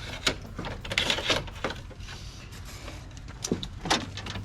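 Scattered clicks and knocks of plastic clips and door parts being popped out and handled inside a pickup's door, about six sharp ones, several of them in the first second and a half.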